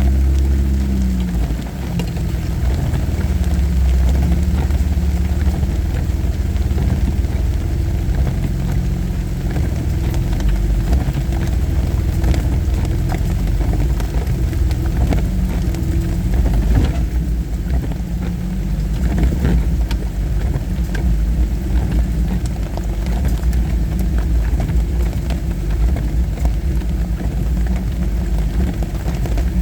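Jeep engine running low and steady, heard from inside the cab while crawling along a rough, wet dirt trail, with scattered clicks and knocks throughout.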